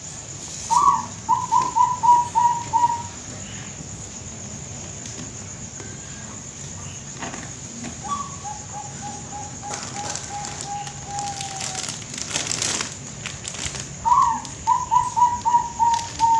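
Zebra dove (perkutut) of the Bangkok song line cooing three times, each phrase an opening note followed by a quick run of short even coos; the middle phrase is softer and longer, trailing slightly downward.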